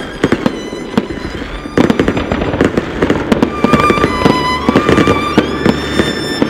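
Fireworks shells bursting in many sharp bangs and crackles, much denser from about two seconds in. Under them plays the show's soundtrack from a radio, violin music with long held notes.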